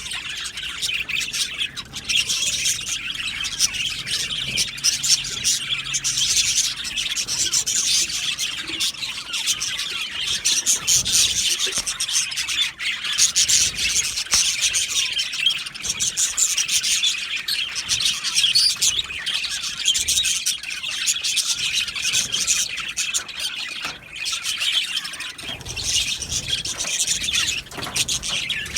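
A colony of budgerigars chattering and chirping together, a dense continuous warble of many overlapping calls.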